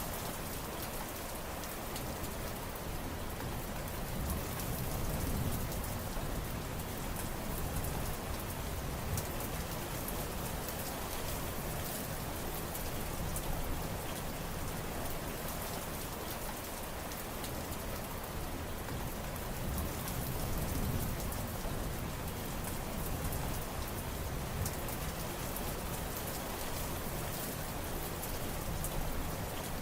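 Steady heavy rain with dense patter of drops hitting surfaces, swelling gently in loudness every few seconds.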